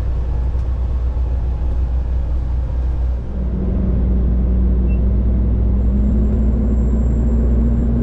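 Diesel engine of a road-train prime mover running with a steady low drone. About three seconds in it dips briefly, then settles into a steadier, slightly louder note.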